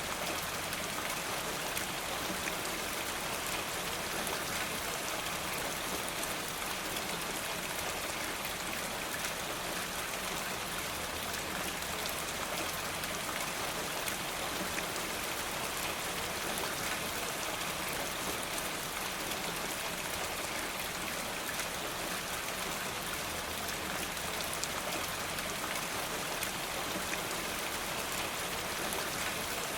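Steady rain falling, an even hiss of drops sprinkled with fine ticks, unchanging throughout.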